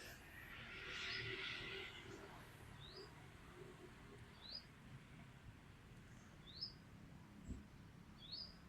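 Faint bird chirps: a short rising note repeated about every two seconds. A soft hiss rises and fades in the first two seconds.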